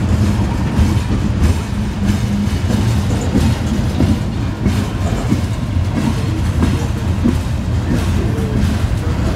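Freight train of covered hopper cars rolling past: a steady rumble of steel wheels on the rails with scattered light clicks.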